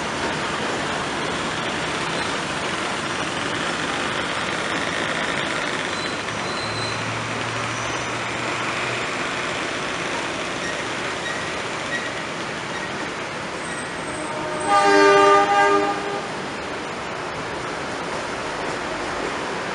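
Passenger train rolling slowly past, with a steady rumbling noise from the carriages on the track. About three-quarters of the way through, the train's horn sounds once for about a second and a half, much louder than the rolling noise.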